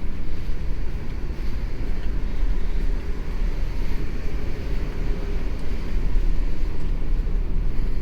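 Steady low rumble of a large ferry under way: engine drone and rushing air, with no distinct events.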